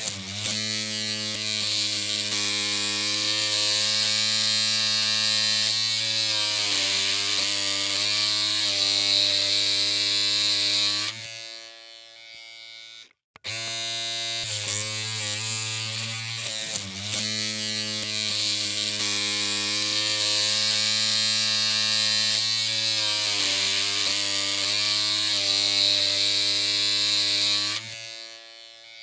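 Electric clippers running with a steady buzzing hum. The sound fades away about 11 seconds in, goes almost silent for a moment, starts again about 13 seconds in, and fades out again near the end.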